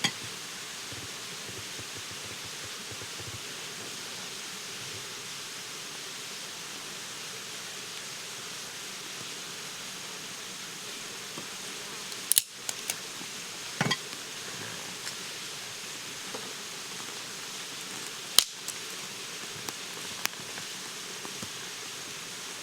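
Steady outdoor background hiss with faint insect buzzing. A few sharp knocks or taps come about halfway through and again later, the loudest a little past halfway.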